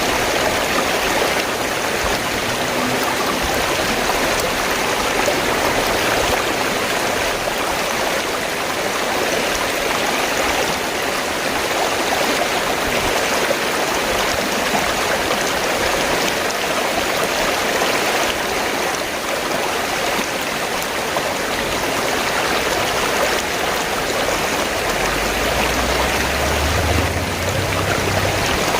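River water flowing steadily, with a low rumble coming in near the end.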